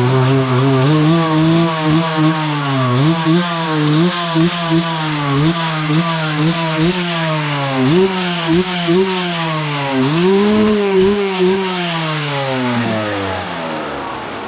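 A vehicle engine revs up and down over and over, its pitch climbing in short runs and falling back. It settles lower and quieter near the end.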